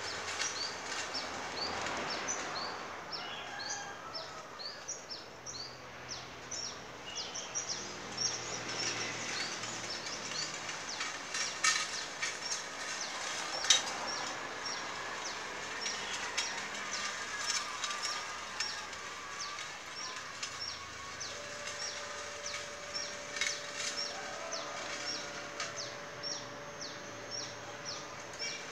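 Small birds chirping steadily, short high chirps repeating about twice a second over a light outdoor hiss, with a couple of sharp clicks about halfway through.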